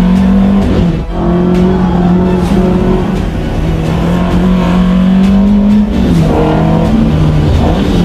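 Classic Alfa Romeo four-cylinder engine pulling hard, heard from inside the car. Its note climbs under load and drops sharply at upshifts, about a second in and again near six seconds.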